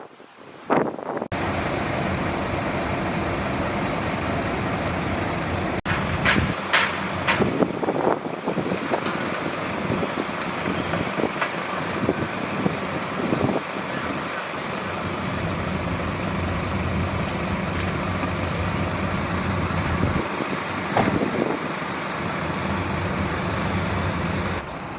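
Vehicle engine idling steadily, starting suddenly about a second in, with a few short hisses between about six and eight seconds in.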